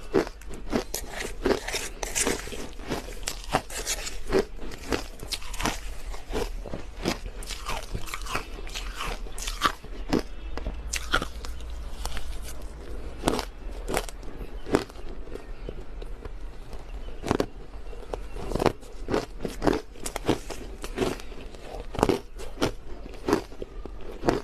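Crushed ice being bitten and chewed close to the microphone: an irregular stream of sharp crunches, several a second.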